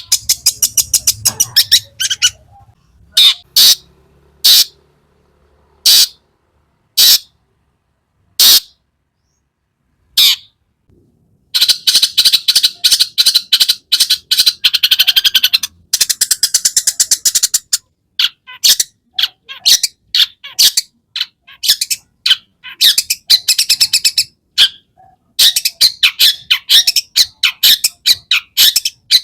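Long-tailed shrike (cendet) singing: a few separate harsh, high calls about a second apart, then, after a short pause, a fast unbroken run of chattering notes mixed with other birds' phrases. This is the bird in full 'gacor' song with 'isian' (mimicked fill).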